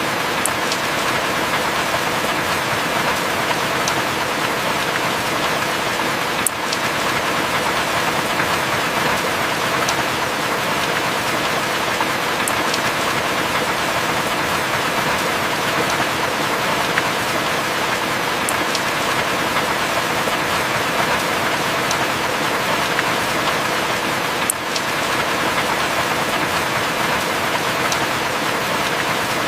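Heavy rain falling steadily: a dense, even hiss with scattered sharper drop ticks, and no thunder.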